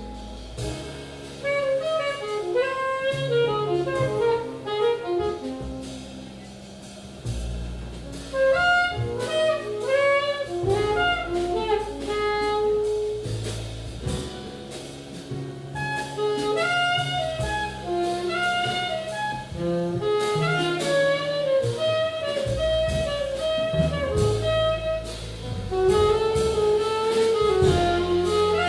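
Small jazz group playing live: a saxophone runs quick melodic lines over double bass notes and drum-kit cymbal strokes.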